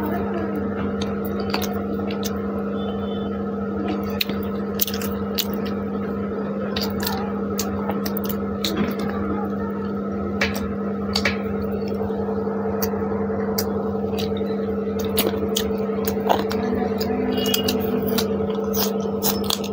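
Close-miked eating sounds of chicken pulao eaten by hand: chewing, biting and wet lip-smacking, heard as many short sharp clicks. A steady hum runs underneath.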